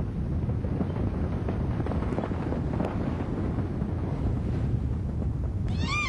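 Continuous heavy low rumbling with scattered crackles, the sound of the Sichuan earthquake shaking the ground. Just before the end comes a short, high animal call that rises and falls.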